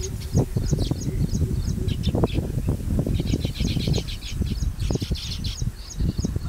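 Baya weavers chirping: quick runs of short, high chit notes, several a second, that pause briefly and start again, over low, irregular noise.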